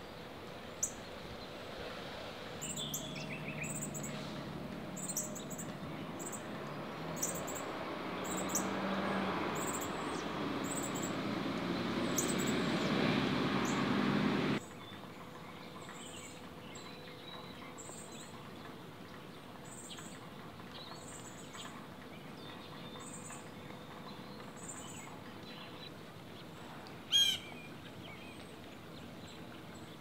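Birds calling: a thin, high chip repeats about once a second throughout, and a louder, wavering bird call comes near the end. Under the first half a rumbling background noise builds up, then cuts off abruptly about halfway through.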